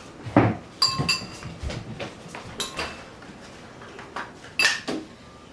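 Dishes and a glass handled on a table: a series of sharp clinks and knocks, a few of them ringing briefly.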